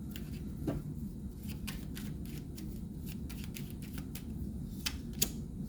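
Tarot cards being shuffled and handled: a run of light, irregular clicks and flicks over a steady low hum.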